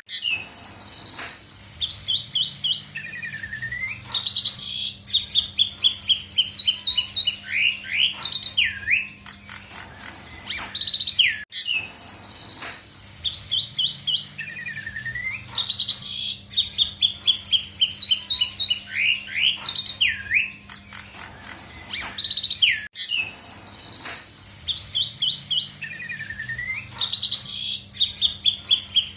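Asian pied starling (jalak suren) singing loudly and without pause: rapid chirps, trills and swooping whistles, a song full of mimicked calls of other birds. The same song phrase recurs about every eleven seconds, a looped recording, over a faint steady hum.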